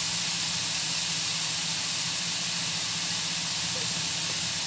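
Strips of liver with peppers and tomatoes frying in oil in a pan, a steady sizzling hiss.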